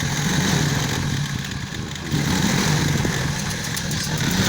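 Motorcycle engine running at idle, steady with a slight waver, a little louder about two seconds in.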